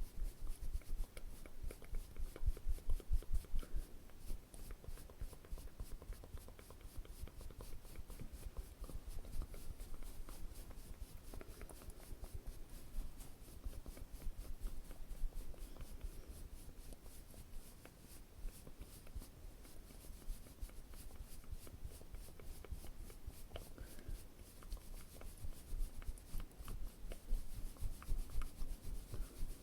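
Close-miked ASMR trigger sounds: steady scratchy rubbing and brushing with many quick light taps. There are dull low thumps in rhythmic runs about two seconds in and again near the end.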